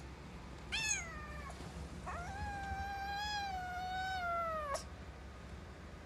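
Orange-and-white kitten meowing, shut in a cage and calling to be let out: a short call falling in pitch about a second in, then one long, drawn-out meow that cuts off abruptly near the five-second mark.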